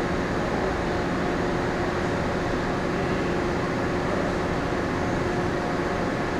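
Steady hum of a moored passenger ship's onboard machinery and ventilation, unchanging, with a few steady tones over an even rumble.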